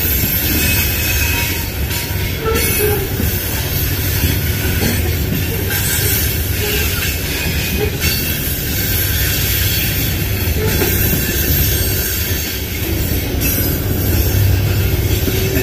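Covered hopper cars of a Union Pacific grain train rolling steadily past: a continuous rumble of steel wheels on the rails, with bits of high wheel squeal.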